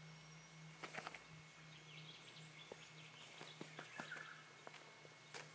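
Near silence: faint outdoor background with a low steady hum and scattered soft ticks.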